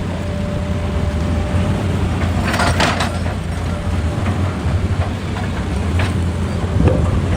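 Excavator's diesel engine running steadily with a low drone, broken by a few short harsh noises, two close together about two and a half seconds in and more near the end.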